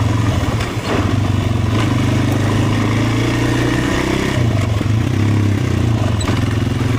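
Off-road vehicle engine running while being ridden, its pitch rising and falling with the throttle, with a brief stumble about a second in. It has been cutting out when given throttle, which the rider puts down to the tank running nearly dry.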